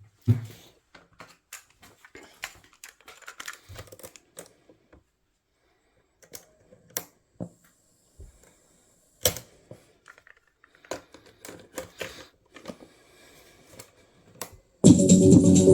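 Scattered sharp clicks and light knocks from the plastic controls and case of a vintage Sanyo cassette boombox being handled, with a brief faint high whine in the middle. Loud music starts near the end.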